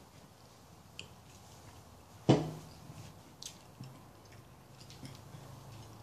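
Quiet eating sounds: soft chewing and small mouth clicks. About two seconds in comes one sharp, loud knock, the loudest thing here.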